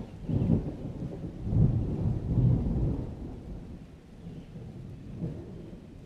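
A thunderclap rolling in a rainstorm: a low rumble that swells in several waves over the first three seconds and then dies away.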